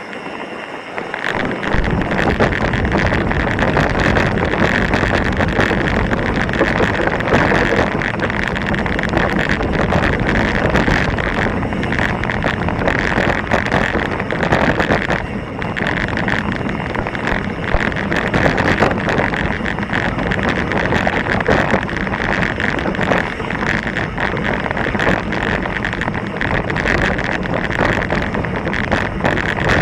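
Mountain bike riding down a rocky, loose trail: tyres crunching and the bike rattling over stones, with wind rushing over the camera microphone. The noise jumps up about a second and a half in and stays loud.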